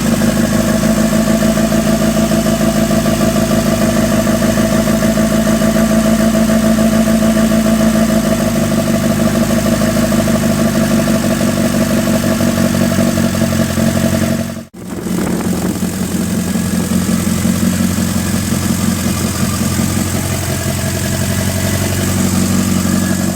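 Engine of a Daihatsu V57 1.5-tonne lorry idling steadily, freshly reinstalled. It cuts out abruptly for a moment about 15 seconds in, then runs on.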